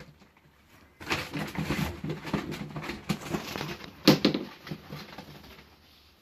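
Scuffling and rustling with many small knocks and one sharp knock about four seconds in, as racing pigeons are handled and packed into a shipping box; it dies away near the end.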